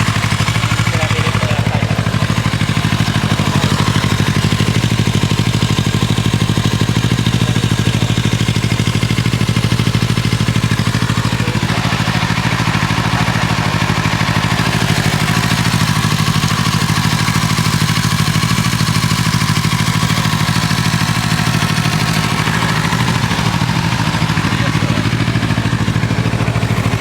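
Kawasaki Z650RS's parallel-twin engine idling steadily through an SP Tadao POWERBOX FULL 2-into-1 short exhaust.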